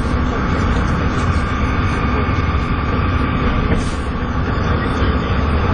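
Volvo B7TL double-decker bus's diesel engine running hard, a deep steady drone with a steady high whine over it: the turbo 'hoover' sound these buses are known for.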